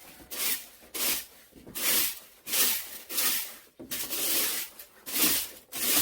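Repeated scraping or brushing strokes, about eight in all, coming one or two a second.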